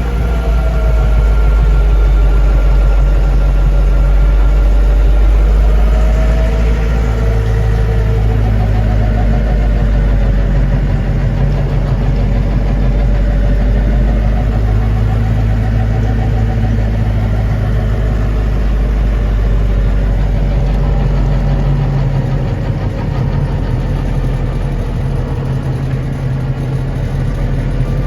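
A 50-horsepower Lovol tractor's diesel engine running steadily, its pitch shifting slightly.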